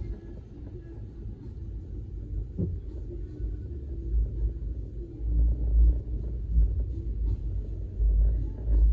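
Low rumble of a vehicle moving in town traffic, swelling louder in the second half.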